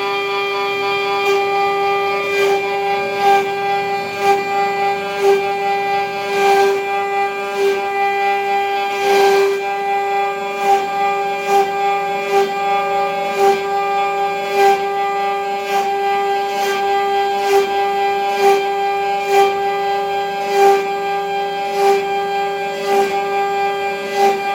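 CNC router spindle running at a steady high speed with a constant whine, while the bit cuts into wood with a pulse a little more than once a second.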